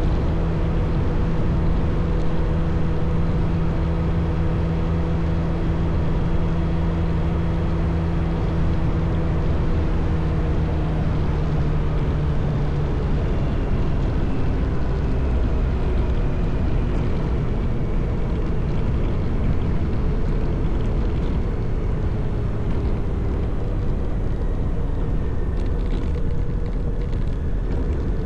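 Motorcycle engine running under way, heard from the bike over heavy wind and road noise; the engine's pitch holds steady, then shifts about halfway through as the speed changes.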